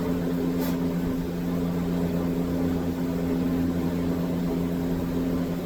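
A steady, unchanging machine hum with a low drone beneath it.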